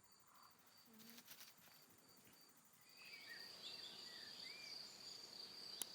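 Faint rural ambience: an insect's thin, high-pitched trill, pulsing at first and then steady from about halfway, with a few soft bird chirps and a single sharp click near the end.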